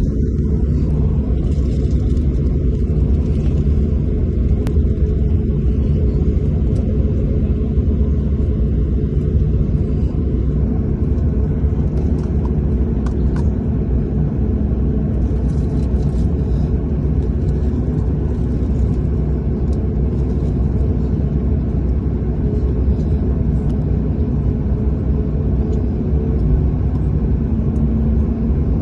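Jet airliner during take-off, a loud steady low rumble.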